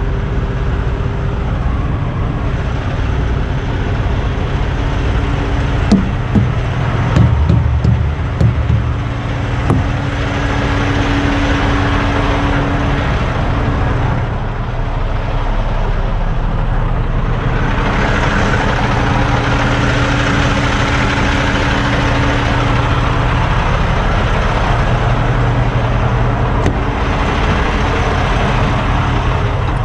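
Idling diesel truck engines: a steady low hum with a constant mid-range drone over it. A few knocks land about six to nine seconds in.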